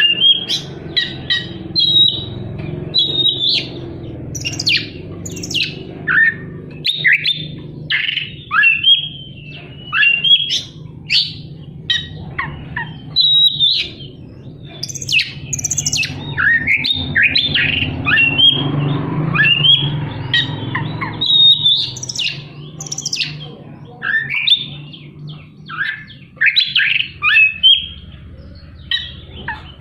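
Oriental magpie-robin (kacer) singing a fast, unbroken run of short sharp chirps and quick whistled sweeps, harsh 'tembakan' bursts mixed with imitated fill-in phrases, over a low steady background hum.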